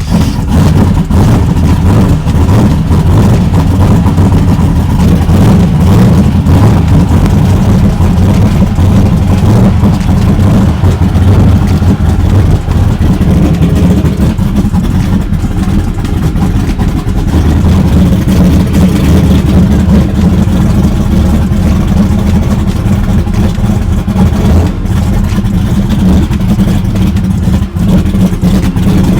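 Tuned car's engine running loudly with a deep, steady low rumble that comes in suddenly at the start.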